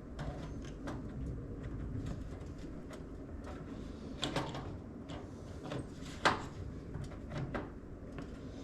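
Scattered light clicks and knocks of computer parts and tools being handled during assembly, with the sharpest knock a little past six seconds in, over a steady low hum.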